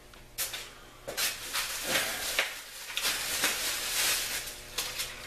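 Packaging being handled: plastic and cardboard rustling and crinkling in irregular bursts, starting about half a second in.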